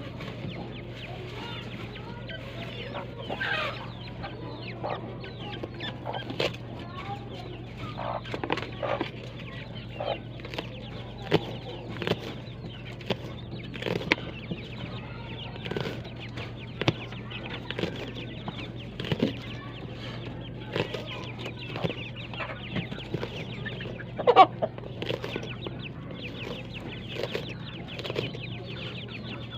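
Chickens clucking and chirping in short, scattered calls throughout, with one louder call a little past two-thirds of the way through, over a steady low hum.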